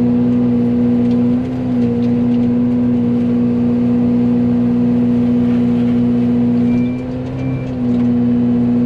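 Fecon forestry mulcher head on a Yanmar excavator spinning at full speed, a loud, steady hydraulic whine with the engine under it. Its pitch sags briefly twice, about a second and a half in and again near the end, as the spinning head bites into brush and loads up.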